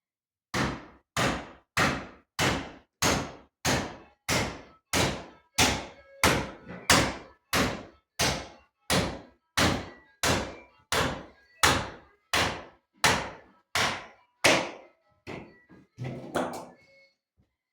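Hammer blows struck at a steady rhythm, about one and a half a second, with a few quicker, closer hits near the end.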